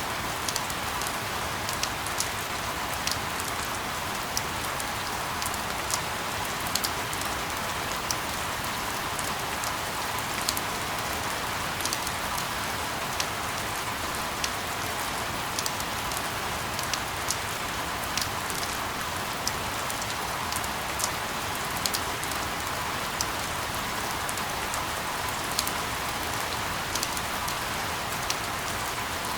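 Steady white noise for sleep: an even hiss with many scattered sharp ticks, like rain falling on a surface.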